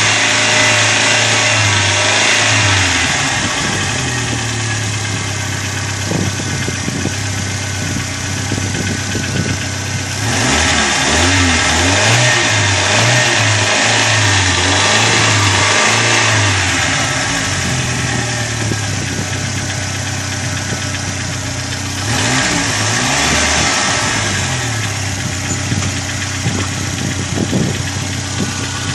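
Corsa car engine running, revved and let fall back a couple of times, about ten seconds in and again past twenty seconds. It makes the hydraulic lifter noise that the owner puts down to lifters slow to fill with oil because of a dirty oil pickup screen in the sump.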